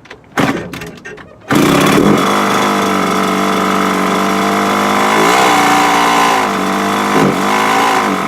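Dirt bike engine catching after a couple of short tries, then running steadily with two brief blips of throttle. It runs poorly, not good at all, and the owner plans to replace the piston and rings.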